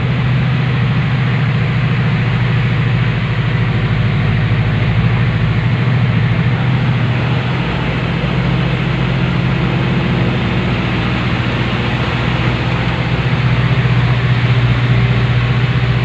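Truck engine running steadily with a deep, even hum and road noise, growing slightly louder near the end.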